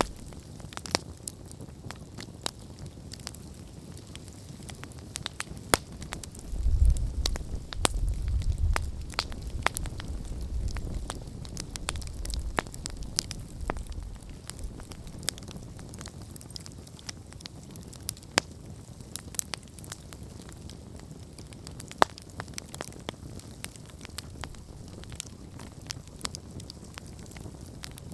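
Campfire crackling, with many irregular sharp pops and snaps over a soft hiss. A low rumble swells briefly about seven seconds in.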